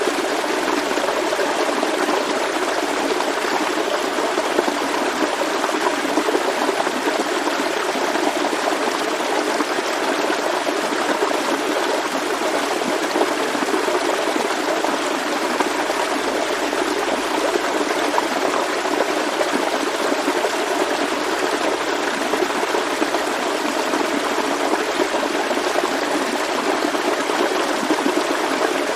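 Forest stream flowing over rocks: a steady, even rush of water that does not let up.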